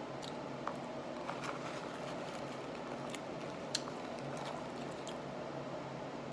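A person chewing roasted almonds with the mouth closed: a few small, sharp crunching clicks, the strongest a little past the middle, over a steady low hum.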